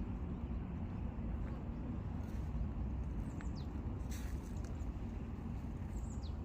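Outdoor park ambience: a steady low rumble like distant city traffic, with two short bird chirps falling in pitch, one about halfway through and one near the end.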